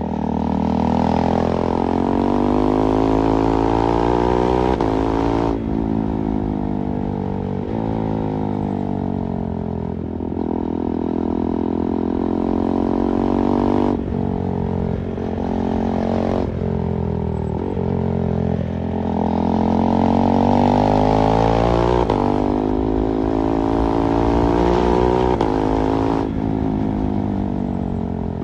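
KTM 390 Duke's single-cylinder engine pulling hard and shifting through the gears: its pitch climbs and then drops sharply at each shift, many times over, with wind rushing over the microphone.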